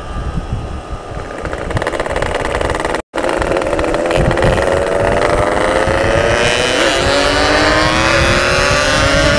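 Yamaha RX-King's single-cylinder two-stroke engine blaring through a 'setengah dewa' aftermarket exhaust while riding. The sound cuts out for an instant about three seconds in, then the engine pulls in one long, steadily rising rev.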